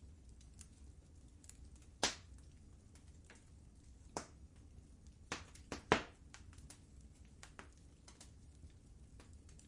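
Wood fire in a fireplace crackling: irregular sharp pops and snaps over a low steady rumble of the flames, with louder pops about two seconds in and about six seconds in.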